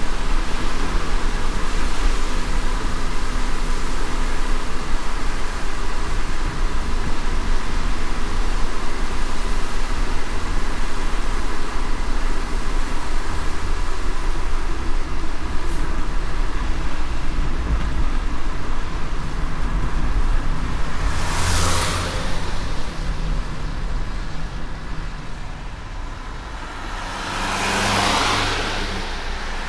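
A car driving on a wet road in light rain: a steady hiss of tyres and rain with a low road rumble underneath. Another vehicle swishes past about two-thirds of the way in, and a second, longer one near the end.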